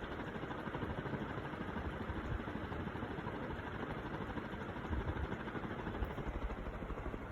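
Klarstein industrial metal ceiling fan running at medium speed, about 250 revolutions per minute: a steady rush of moving air with a fast, even low pulsing.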